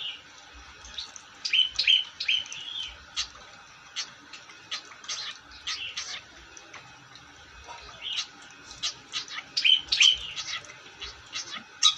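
Long-tailed shrike (cendet) in lively song: quick runs of short, sharp chirps and squeaky notes, with a brief pause about two-thirds of the way through.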